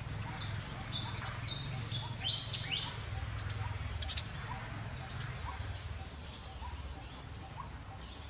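Birds chirping: a quick run of short high chirps and falling notes in the first three seconds, with a soft lower note repeating about once a second and a steady low hum beneath.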